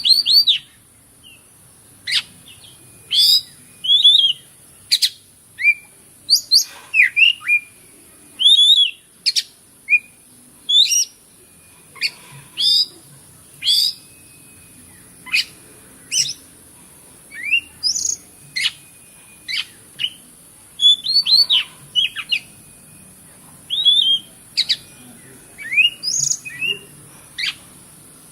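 Oriental magpie-robin (kacer) singing: a run of short, loud whistled and chirping phrases, quick notes sweeping up and down, one after another with brief pauses between them.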